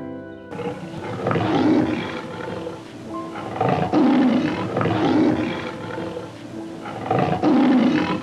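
A big cat roaring: a run of deep, rasping grunts about a second apart.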